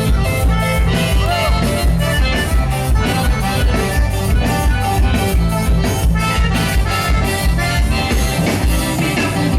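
Instrumental band music led by accordion over a steady, even drum beat, with no singing.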